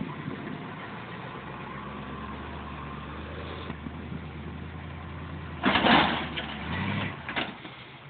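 A vehicle engine idling steadily, with a loud, harsh noisy burst about six seconds in and a few sharp knocks after it.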